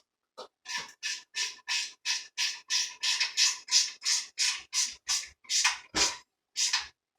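Ratchet wrench tightening nuts onto the mount base: a quick series of short rasping ratchet strokes, about three a second.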